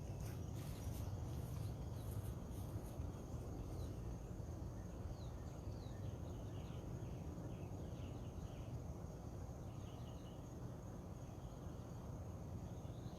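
Outdoor nature ambience: a steady high-pitched insect trill runs throughout over a low, even background hiss, with short bird chirps scattered through the middle and later part.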